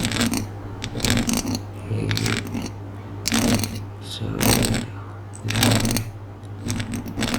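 Close-miked ASMR trigger sounds: short crackly scratching and clicking bursts about once a second, over a steady low electrical hum.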